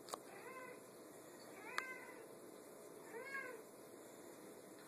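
Pet cat meowing softly three times, short arching meows about a second and a half apart. Two faint clicks are also heard, one right at the start and a sharper one with the second meow.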